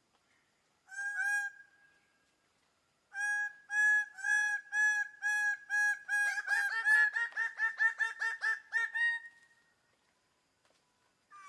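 Greater bird-of-paradise calling: a single call, then after a pause a series of repeated calls about two a second that quickens into a rapid run before stopping.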